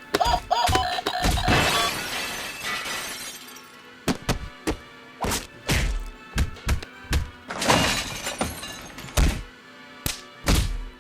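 A crash with breaking and shattering that dies away over about two seconds, then a string of short, sharp knocks at uneven intervals, over music.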